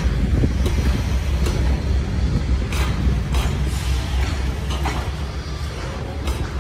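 Passenger train hauled by a TE33AC diesel locomotive rolling away, a steady low rumble with scattered sharp clacks of wheels on the rails.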